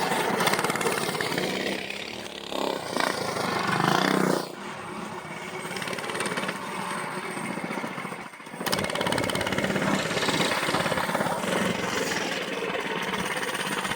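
Small single-cylinder four-stroke mini bike engines running and revving as the bikes ride around. The engine note swells and rises, drops off sharply about four seconds in, dips again briefly past the middle, then runs steadily.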